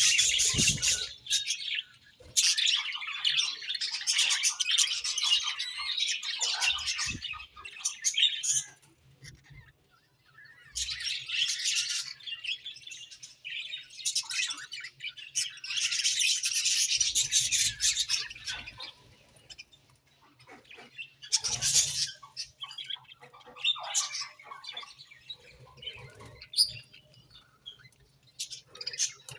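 Budgerigars chirping and warbling in fast, high chattering bouts of several seconds each, with short lulls between them.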